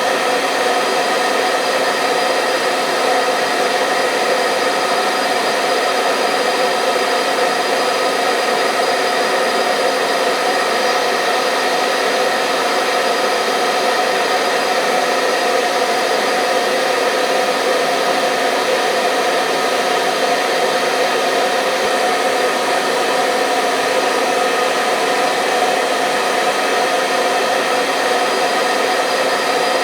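Hair dryer running steadily: an even, unbroken rush of air with a constant motor hum, used as soothing white noise for a sleeping baby.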